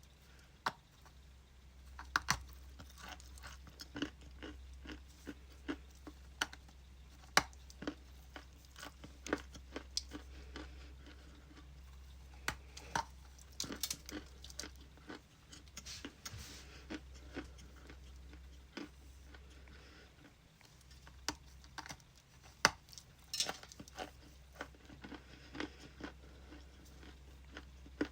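A person biting and chewing something hard and crumbly close to the microphone, with many sharp, irregular crunches over a steady low hum.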